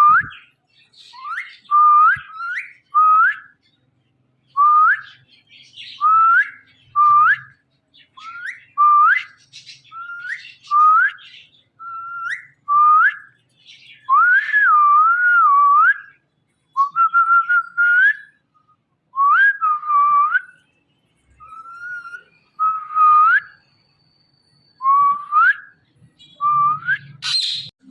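A series of short whistled notes, each a quick upward swoop settling on a level tone, repeated about once a second, with one longer wavering whistle about halfway through.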